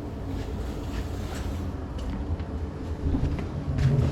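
A few light clicks and knocks of hand tools and metal parts, louder near the end, over a steady low rumble.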